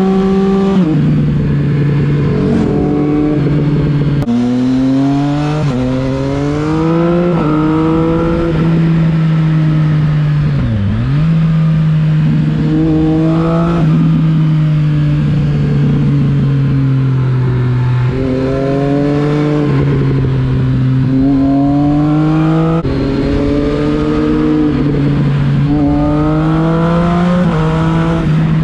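Motorcycle engine pulling hard up through the gears: the revs climb and drop back at each gear change in several runs. There is a steady cruising stretch in the middle, and a brief quick dip and recovery in revs about eleven seconds in and again near the end.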